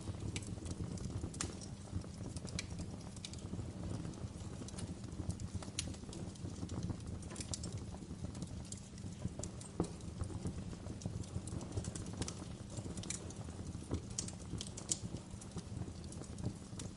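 Wood fire crackling in a fireplace: irregular sharp pops and snaps over a steady low rumble of burning, with one louder pop about ten seconds in.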